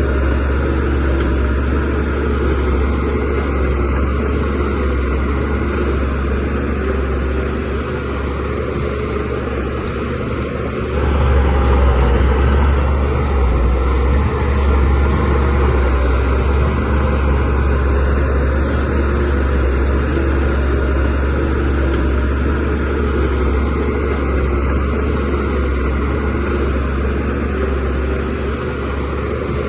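Shantui DH17C3Pro bulldozer's diesel engine running steadily with a deep, constant drone, growing louder about eleven seconds in.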